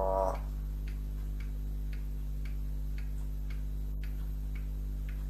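Regular ticking, about two ticks a second, over a steady low hum. A short pitched, voice-like sound ends just after the start.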